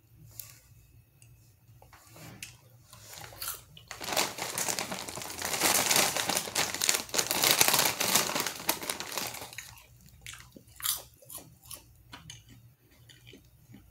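Chewing kettle corn popcorn, with soft scattered crunches. About four seconds in, the Smartfood snack bag crinkles loudly for about five seconds as it is handled.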